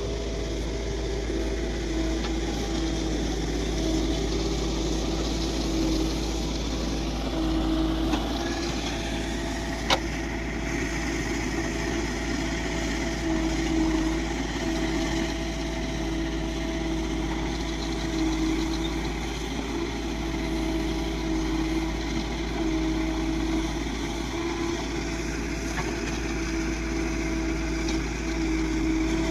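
Diesel engines of a JCB backhoe loader and a tractor running steadily during soil loading, with a constant drone and one sharp knock about ten seconds in.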